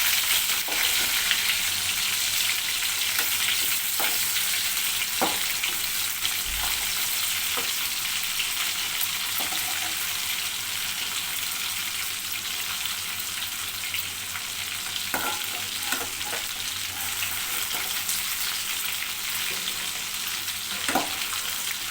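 Batter-coated chicken pieces deep-frying in hot oil in a pan: a steady crackling sizzle, with a few light knocks of a spoon turning the pieces.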